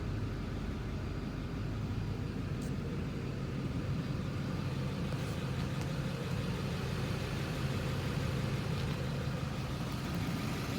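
A 6.6-liter Duramax turbo diesel idling steadily with a low, even hum.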